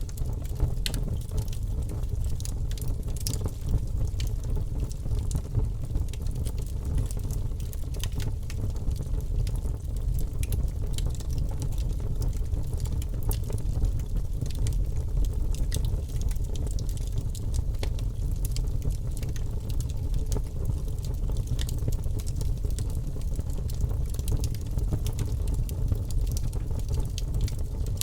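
Fire crackling in a fireplace: irregular sharp pops and snaps over a steady low rumble of burning.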